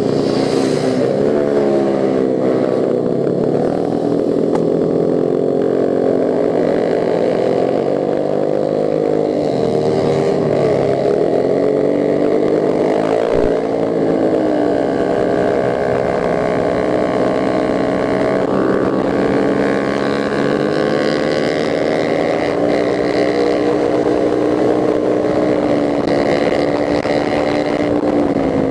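Motorcycle engine running under way, its pitch dropping and climbing again several times as the rider eases off and accelerates, with air rushing past the microphone.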